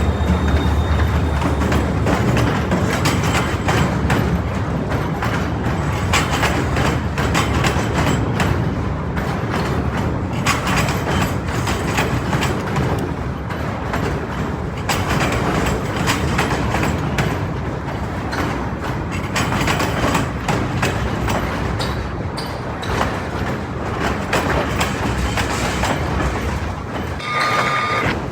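Freight train cars rolling past, wheels clicking steadily over the rail joints with a continuous rumble. A short high steady tone sounds near the end.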